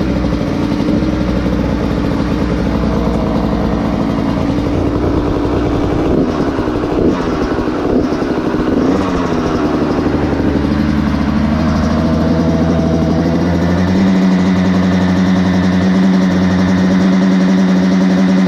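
Kawasaki KX85 single-cylinder two-stroke engine running after a cold start on choke, with a few quick revs near the middle, then settling into a steady, slightly faster and louder run over the last few seconds.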